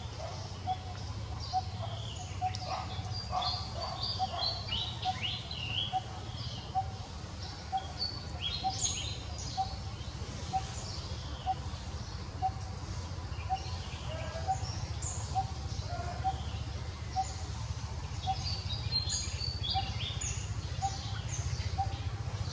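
Birds calling: one bird repeats a single short note evenly, about once every two-thirds of a second, while quick high chirps come in clusters over it. A steady low hum runs beneath.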